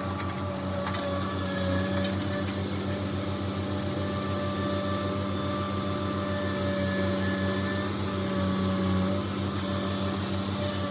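Diesel engine of farm equipment running at a steady speed: a low pulsing drone with steady higher tones on top.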